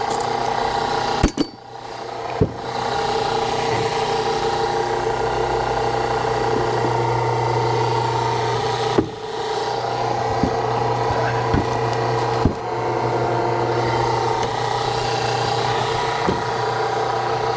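Hydraulic log splitter running under load as its ram presses into a log, a steady hum of constant pitch, with several sharp cracks of the wood splitting.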